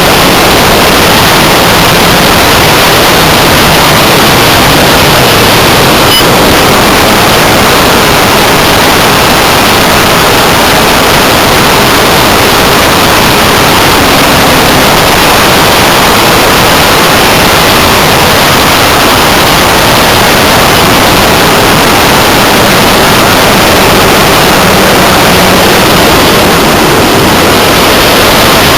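Loud, steady rush of airflow over a FlyCamOne camera mounted on a Multiplex Blizzard RC hotliner in flight, an even noise that nearly overloads the small microphone.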